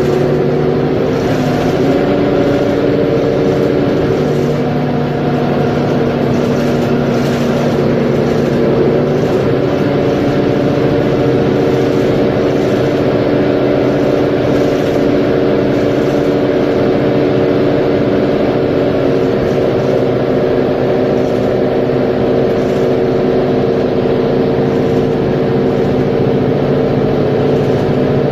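Mercedes-Benz Conecto G articulated city bus's OM457LA inline-six diesel running under way, a steady engine drone whose pitch steps up and down a few times as it drives.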